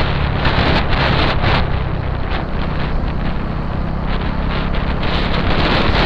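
Wind rushing over the microphone of a moving motorcycle, with the engine's steady low drone underneath.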